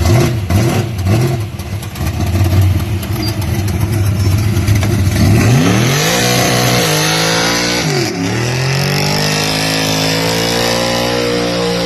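Muscle car engine rumbling with short blips of the throttle, then accelerating hard about halfway through. Its pitch climbs, dips sharply, then climbs again and holds a high note.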